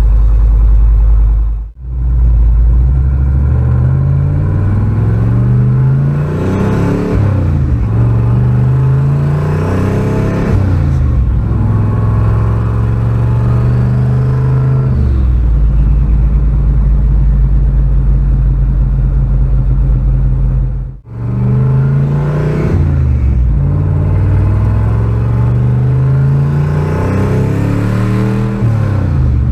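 Turbocharged, carbureted engine of a pickup truck accelerating hard under boost, its pitch climbing and dropping back again and again as it pulls through the gears. The sound breaks off briefly twice, near the start and about two-thirds through.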